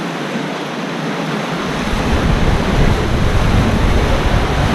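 Rushing water around a rapids-ride raft, a steady hiss with a low rumble that comes in about one and a half seconds in and grows louder.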